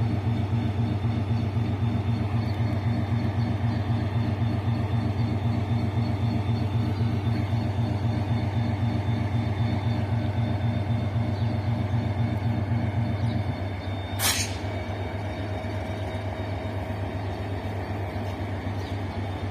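Diesel locomotive engine running with a heavy, throbbing drone that drops back to a lower, quieter note about two-thirds of the way through. Right after, a short sharp hiss of released air is heard, typical of the air brakes.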